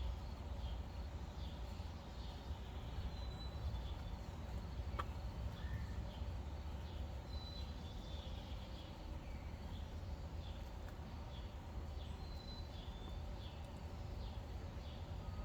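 Birds chirping in short, repeated high notes over a steady low rumble.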